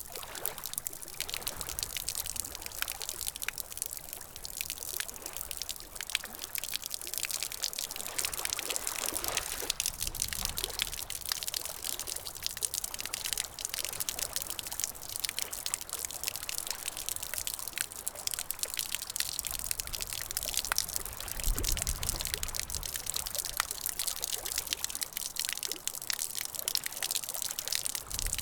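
Water trickling and pouring steadily, dense with small splashes and drips.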